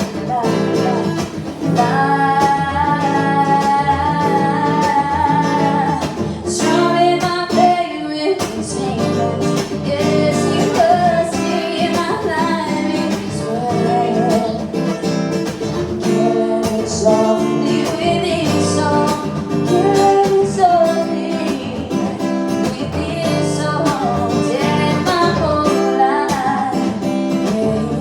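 Live acoustic guitar strummed under a singing voice that holds long notes.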